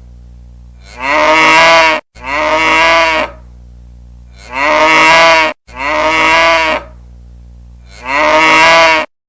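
Cow moo ringtone: five loud moos of about a second each, coming as two pairs and then a single, over a faint steady low hum.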